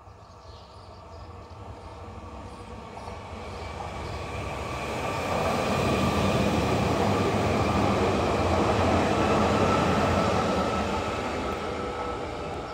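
Electric multiple unit 48WE-006B passing by: its rolling noise builds over about six seconds, peaks in the middle and fades as the train moves away, with a steady high whine over the rumble.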